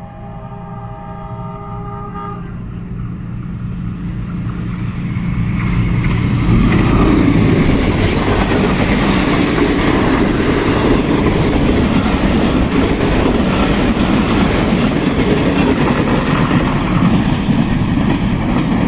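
A Pakistan Railways express train sounds its horn, a chord of several tones over the engine, which stops about two and a half seconds in. The train then grows louder over several seconds and passes at high speed with wheels clattering on the rails.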